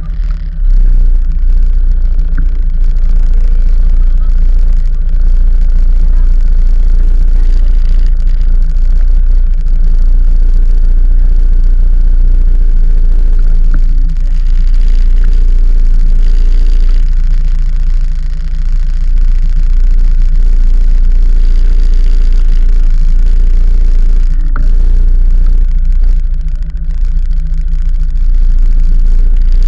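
Very loud, steady low rumble of a vehicle under way, running on with small rises and dips.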